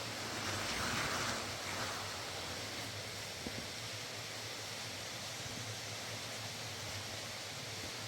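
Steady rushing of a fast river, an even wash of water noise with a slightly brighter swell about a second in.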